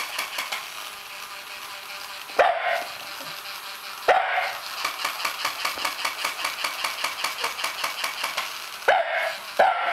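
Four short, sharp dog barks, about two and a half seconds in, around four seconds, and twice near the end, over a fast, even clicking that runs throughout.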